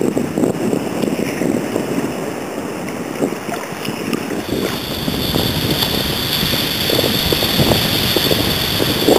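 Wind buffeting the microphone over water splashing around a sea kayak under way; the wind rumble grows heavier about four seconds in.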